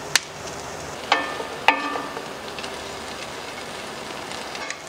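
Diced guanciale sizzling steadily in a copper sauté pan as its fat renders out. A sharp click just after the start and two ringing knocks on the pan a little after a second in.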